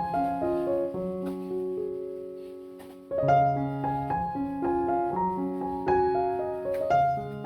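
Background piano music: a gentle melody of struck notes over held bass notes, fading briefly about three seconds in before the next phrase begins.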